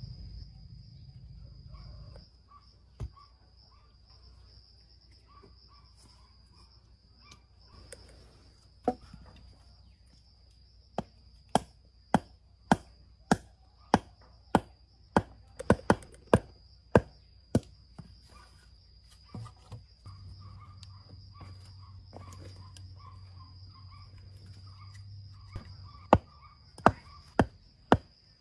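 Repeated sharp chopping strikes, about one and a half a second in a run through the middle and again near the end, over a steady high trill of insects.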